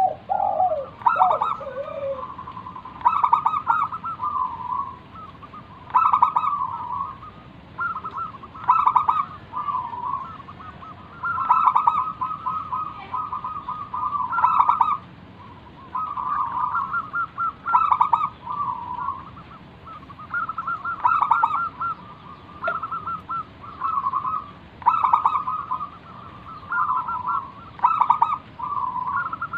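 Zebra dove (perkutut) cooing its song: rapid pulsed, trilling coo phrases repeated every two to three seconds. A lower call, falling in pitch, sounds at the very start.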